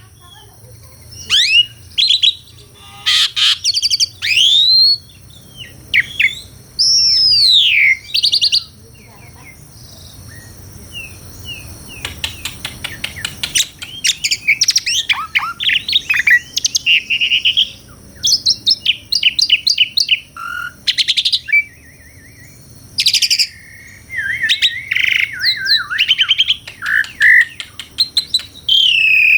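Asian pied starling (jalak suren) singing a varied song: whistled notes sliding up and down, mixed with fast chattering runs of clicks, with a lull of a few seconds about a third of the way in.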